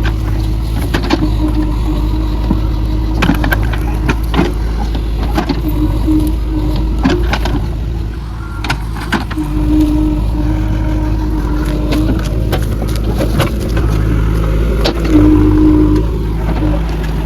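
Diesel engine of a JCB backhoe loader running at working revs, with a tone that rises and falls in level and scattered sharp clanks.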